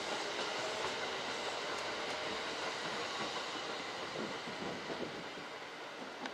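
Kintetsu electric train running through the station, its wheels and rails making a steady rumble that slowly fades as it moves away.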